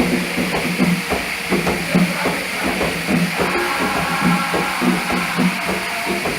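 Umbanda ritual drumming: drums struck in a steady rhythm, about two beats a second, over a constant hiss.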